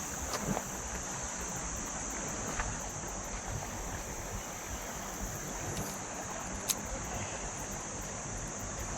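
Steady outdoor background: a constant high insect drone from crickets over a low, steady rumble of wind and flowing water, with a single sharp click near the end.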